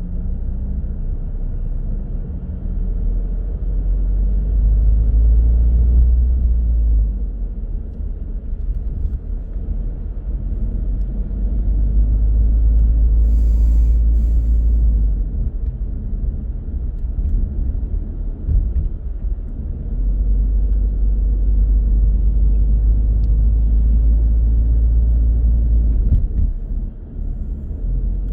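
Car on the road: a steady low rumble of tyres and engine that swells and eases several times, with a brief hiss about halfway through.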